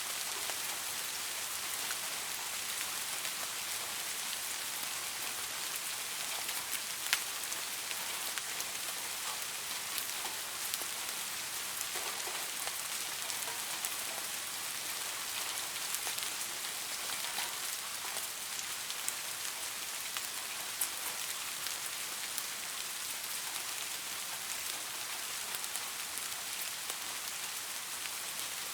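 Steady light rain falling on a surface, with scattered individual drops ticking clearly here and there.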